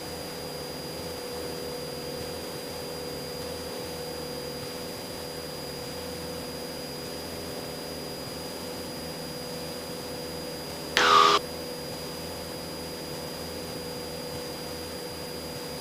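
Steady cabin drone of a Cessna 172SP's four-cylinder Lycoming engine and propeller at climb power, heard as an even hiss with a steady hum and a high whine. About eleven seconds in there is one short, sharp burst lasting about half a second.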